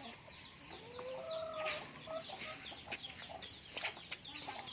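Chickens clucking, with a constant chorus of many short, high, falling peeps, as of chicks.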